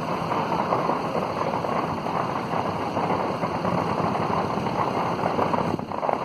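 Fireworks display crackling in a dense, continuous barrage, with a brief lull about six seconds in.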